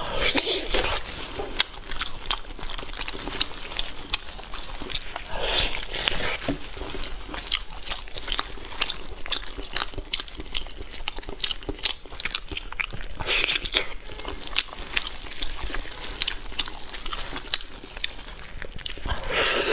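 Eating sounds from a braised pork knuckle: biting into and tearing the meat, and wet chewing with many short mouth clicks and smacks. There are a few louder bites spread through.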